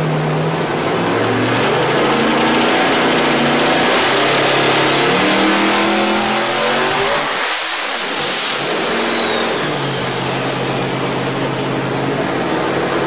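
Twin-turbo racing engine revving hard under load on a dyno, its pitch climbing with a rising turbo whistle. About seven and a half seconds in it lets off, and the whistle falls away as the engine drops back to a lower, steadier note.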